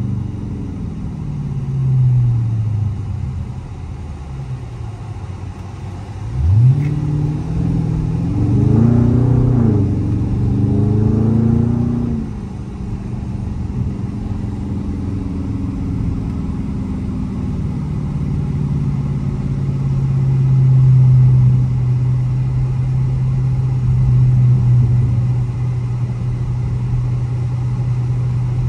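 Dodge Charger Scat Pack's 392 HEMI V8 heard from inside the cabin while driving: a sharp rev about six seconds in, the engine note rising and falling for several seconds after, then a steady low drone while cruising.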